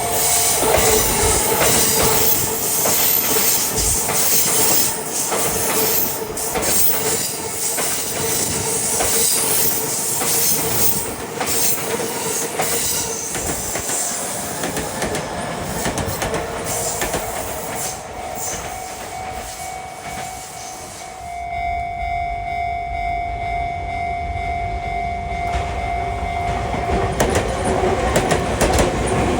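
Electric commuter trains running past on double track one after another, wheels clattering over the rail joints with some wheel squeal and steady tones from the running gear.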